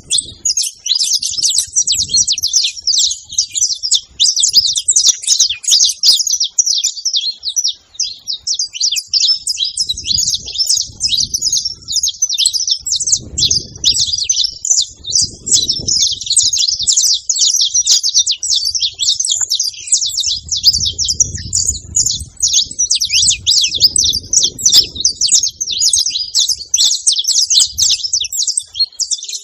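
Saffron finch (canário-da-terra) chirping in a rapid, continuous stream of high notes.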